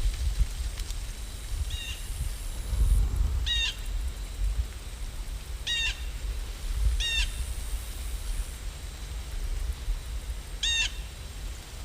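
A bird calling five times in short chirps, a second or a few seconds apart, over a steady low rumble.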